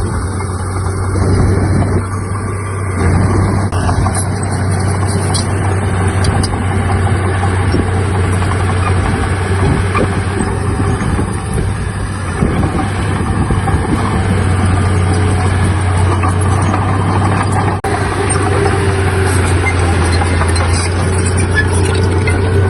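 Heavy earthmoving machine's diesel engine running steadily, a constant deep drone with no break.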